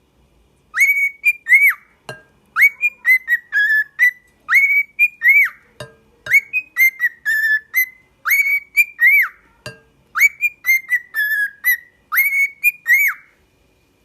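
A parrot whistling a short tune of arching, rising-and-falling notes, repeating the phrase over and over. A few sharp clicks fall between phrases, about every four seconds.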